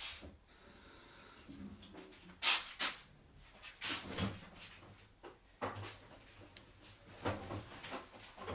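Household handling knocks and clatter: a string of short sharp knocks and clicks, irregularly spaced, as the parts of a coffee machine are handled and fitted.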